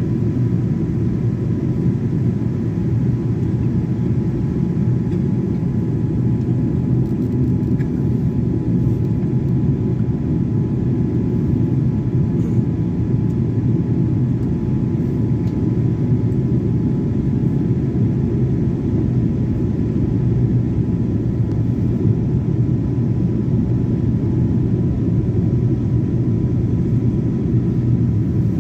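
Airliner's engines and airflow making a steady low drone during the landing approach, with a faint steady whine on top and no change in level.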